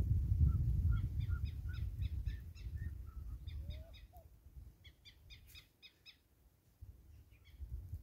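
Birds calling: quick runs of short, repeated chirps, with a low rumble underneath that fades out about halfway through.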